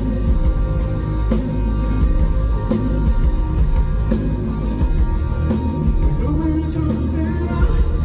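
Live rock band playing, with loud bass, drums and guitar over sustained tones, and some singing.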